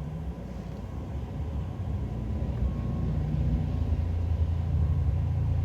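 Car driving: a steady low engine and road rumble that grows gradually louder.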